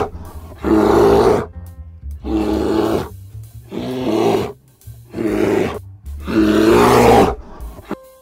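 Bear roaring and growling in a run of loud calls, each under a second, about one every second and a half, over background music with a steady bass.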